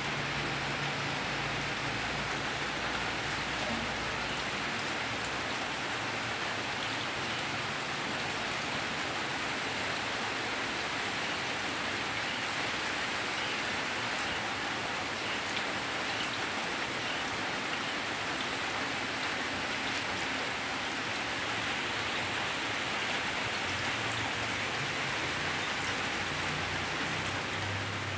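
Steady rain falling on the ground and rooftops: an even, unbroken hiss.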